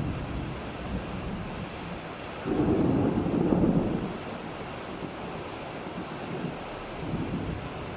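Thunder rumbling once, starting about two and a half seconds in and fading after a second and a half, over a steady rushing bed of rain and wind.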